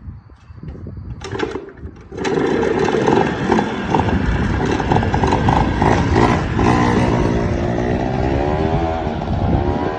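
An engine starts up about two seconds in and runs loudly with a fast pulsing beat, then revs, its pitch rising and falling in the second half.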